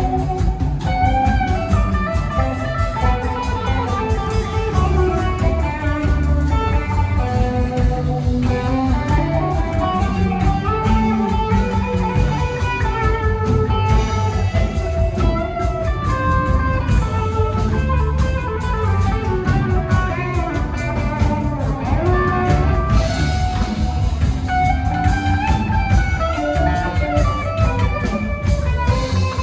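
Rock band playing an instrumental passage: a winding electric guitar lead over drum kit and bass.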